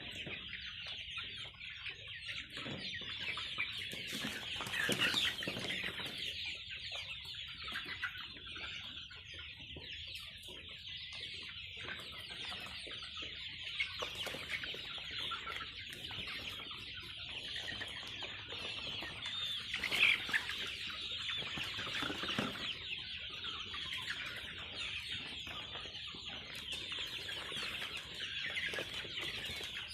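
A flock of Kadaknath chickens calling all at once: a dense, unbroken chatter of many overlapping clucks and high peeps, with a few louder calls standing out.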